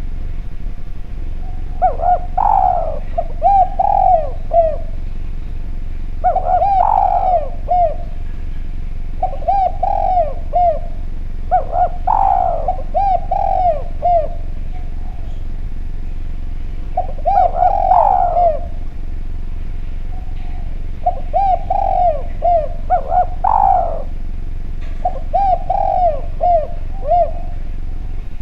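Spotted dove (derkuku) cooing in repeated phrases: each opens with a rising coo followed by a quick run of short rolling coos, about seven phrases a few seconds apart, over a steady low hum.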